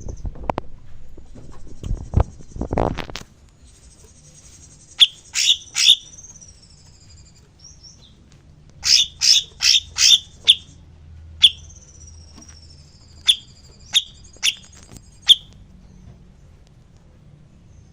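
A captive songbird calling: sharp, high chip notes, singly and in quick runs of up to five, with thin descending whistles between them. Several loud thumps come in the first three seconds.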